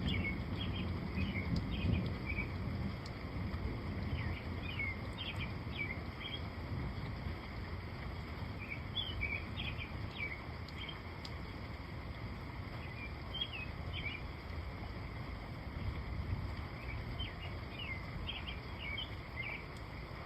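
Small birds chirping in short clusters every few seconds over a steady hiss of rain and a low rumble that swells in the first two seconds.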